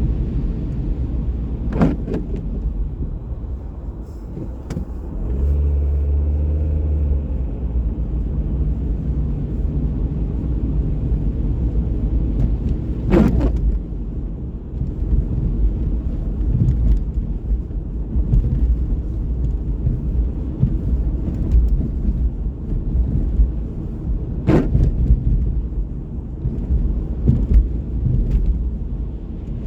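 Street traffic: a steady low rumble of cars passing, with a heavier engine humming loudly for about two seconds around five seconds in. Three sharp clicks stand out, spaced roughly eleven seconds apart.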